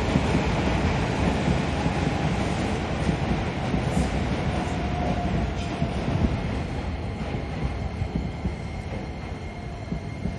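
Electric train running past on the tracks, a steady rumble that slowly fades, with a faint whine about halfway through.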